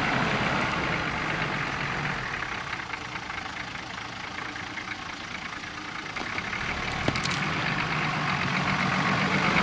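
Off-road 4x4 engine running at low speed as the vehicle crawls through mud, fading somewhat in the middle and growing louder again over the last few seconds.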